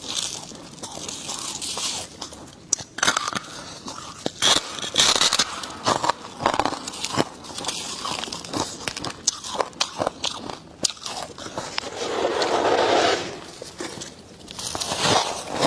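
Close-miked biting and chewing of dry, squeaky freezer frost chunks: many sharp, irregular crunches, with a longer, steadier crunch about twelve seconds in.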